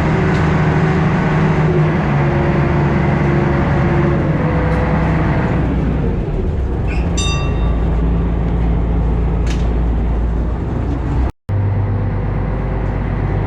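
A large engine running with a steady drone. A short, high beep sounds about seven seconds in. Near the end the sound drops out for an instant, and the drone that follows is lower.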